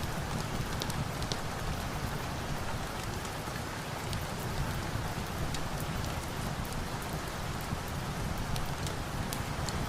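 Steady rain falling, with a wood fire crackling in scattered short, sharp pops over it.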